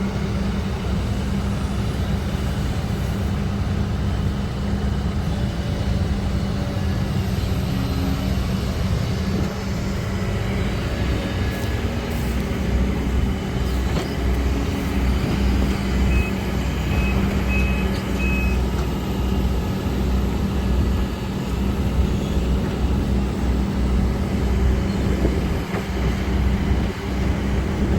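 Heavy diesel machinery engine running steadily under load, with four short high-pitched warning beeps about two-thirds of the way through.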